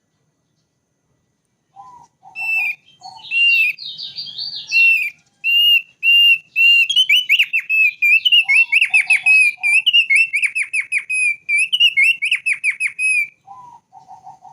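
Thick-billed heleia (opior paruh tebal) singing: after a brief silence, a long run of fast, loud whistled notes with rapid downward-sweeping trills, broken by a few short, lower notes. The song stops about a second before the end.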